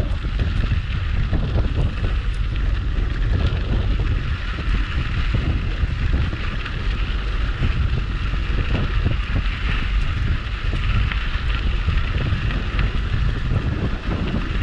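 Wind buffeting the microphone of an action camera on a moving bicycle: a steady, gusty rumble with an even rushing hiss over it.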